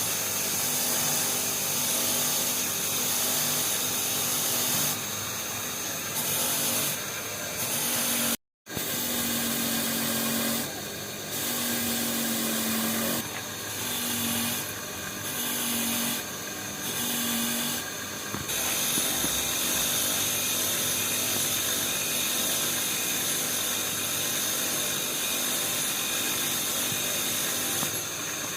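A power tool running steadily, then switched on and off in a series of short bursts in the middle, with a brief total dropout just before the bursts.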